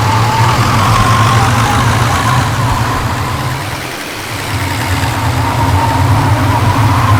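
Car engine and road noise from a vehicle on the move: a steady low hum that eases off briefly about halfway through, then picks back up.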